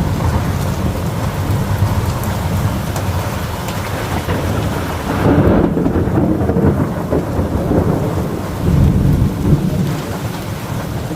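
Thunder rumbling during a thunderstorm over steady rain noise, with the rumble swelling about halfway through and again near the end.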